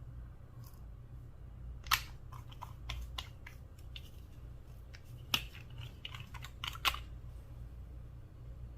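Slime being pressed and squeezed by hand, giving sharp popping clicks in two bursts, one about two seconds in and one about five seconds in, over a faint low steady hum.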